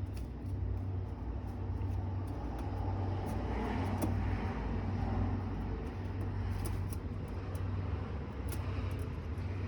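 Steady low mechanical hum, like a running motor, with a few faint light clicks over it.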